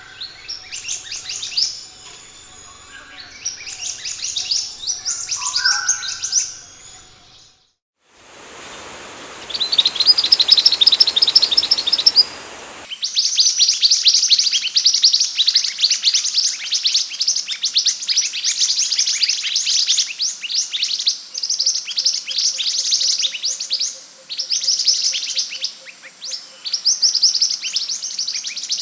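Scarlet minivets (sepah hutan) calling in rapid high chirps and trills. About seven seconds in the calls drop out briefly, then a hissy stretch of faster trills runs for about five seconds before dense chirping resumes.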